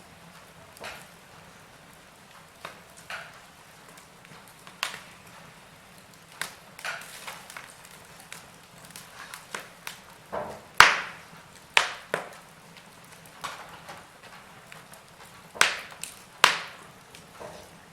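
Wood fire in a fireplace crackling: irregular sharp pops and snaps from the burning logs over a faint steady hiss, with the loudest pop about eleven seconds in.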